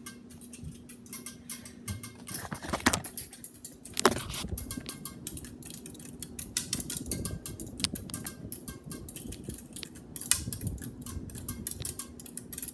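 Casablanca Next Generation Alana ceiling fan running, with a steady motor hum under a fast, uneven ticking. Two louder clicks come about three and four seconds in.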